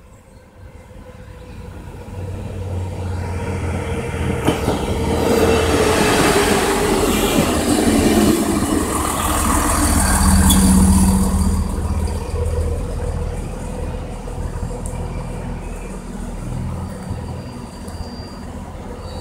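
An Alstom LINT 41 diesel railcar passes over a level crossing. Its engine and wheel noise build up, peak as it goes by with a falling whine, then slowly fade.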